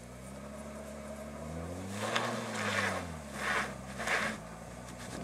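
2000 Audi S4's twin-turbo V6 revving up and dropping back as the lowered car tries to push through about eight inches of deep snow, with short hissing surges from the tyres and snow; the car is bogging down and getting stuck. The revs climb to a peak about two seconds in, fall away, and start climbing again at the end.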